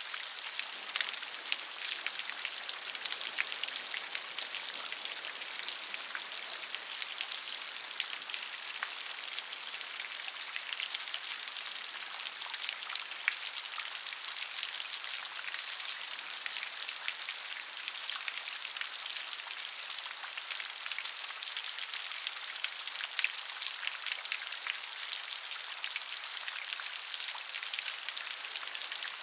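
Steady rain falling on a surface, an even hiss with many separate drop patters and ticks through it.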